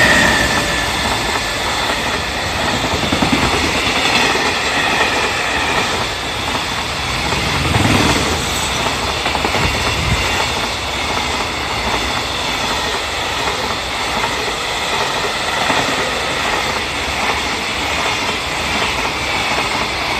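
A JR Freight EF210 electric locomotive passes at speed with a high whine that drops in pitch as it goes by. A long train of container flat wagons follows, rolling past in a steady, loud rush of wheel-on-rail noise with the clatter of wheels over the rails.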